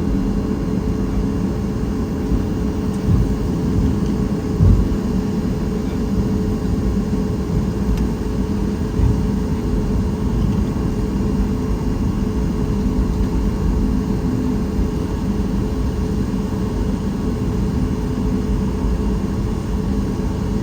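Cabin noise inside a Boeing 737 MAX 8: a steady drone with a constant low hum, broken by a few brief low thumps about 3, 5 and 9 seconds in.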